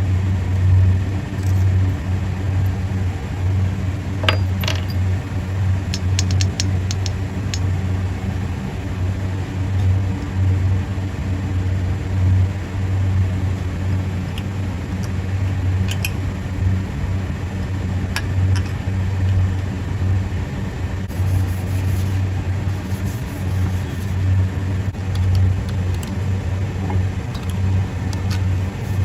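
A machine running steadily with a strong, deep hum, with a few light clicks and ticks over it, a cluster of them about four to seven seconds in.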